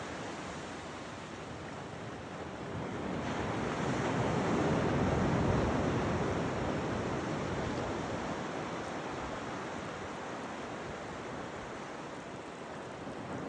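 Atlantic surf washing in the shallows, a steady rush that swells about four to five seconds in and eases again, with wind buffeting the microphone.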